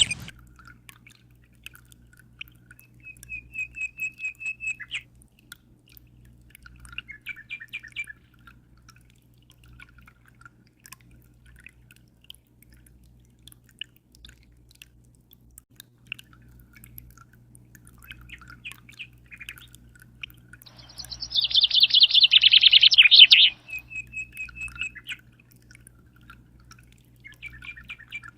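Birds chirping and giving short trills at intervals, with one louder burst of song about three quarters of the way through. Under them runs a steady low hum.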